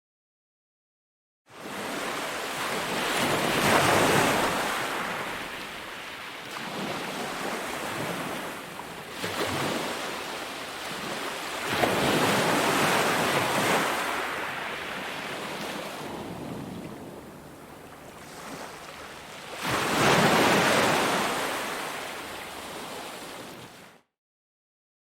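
Sea waves breaking on a beach, swelling and washing out three times, about eight seconds apart. The sound fades in after about a second and a half of dead silence and cuts off abruptly about a second before the end.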